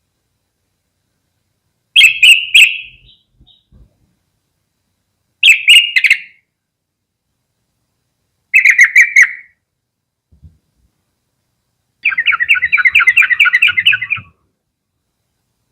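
Yellow-vented bulbul calling: three short bubbly phrases a few seconds apart, then a longer rapid chattering run of about two seconds.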